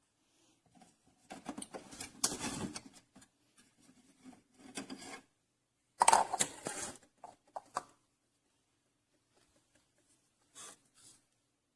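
Handling noises: several short bursts of rubbing and clattering, the loudest about six seconds in.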